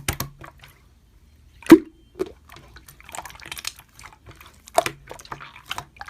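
Slime being pressed and poked by hand, giving wet sticky clicks, squishes and pops, with one loud pop nearly two seconds in.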